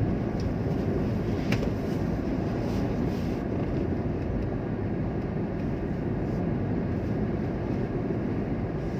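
Steady low rumble of a vehicle running, with a single sharp click about a second and a half in.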